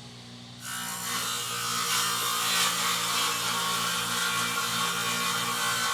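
Table saw running, its blade ripping a 2x6 board lengthwise: the motor's steady hum, then from about half a second in the loud, even noise of the blade cutting through the wood.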